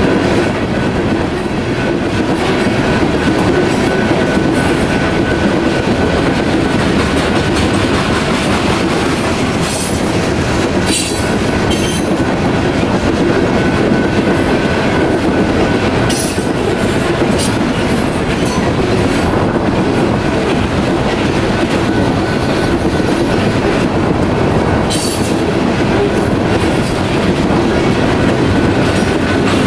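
Cars of a loaded coal train rolling past close by: a steady, loud rumble and clatter of steel wheels over the rails, with a few brief high squeaks.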